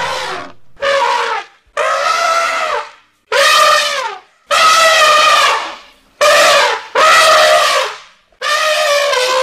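Elephants trumpeting: a run of about eight calls, each around a second long, with short gaps between.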